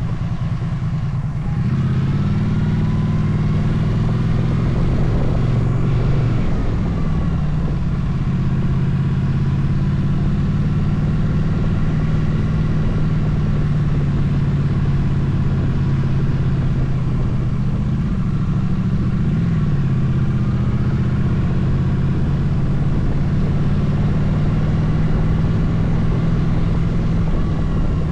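Motorcycle engine running while riding, its pitch shifting up and down several times with throttle and gear changes, over a steady rush of wind noise.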